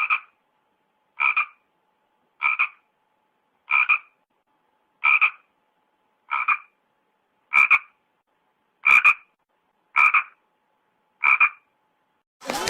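A frog croaking: ten short, evenly spaced croaks about a second and a quarter apart.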